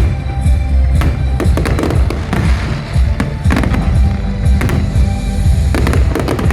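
Fireworks bursting in quick, irregular bangs over loud music with a heavy bass.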